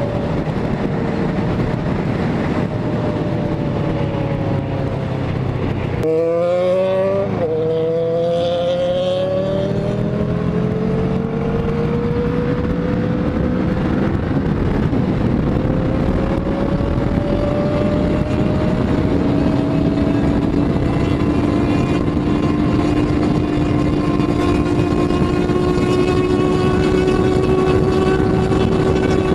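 Motorcycle engine, the Kawasaki ER-6n's parallel twin, running at road speed with wind rush. Its pitch eases down for a few seconds, then about six seconds in it breaks off and the revs climb quickly, followed by a long, steady rise in pitch as the bike accelerates.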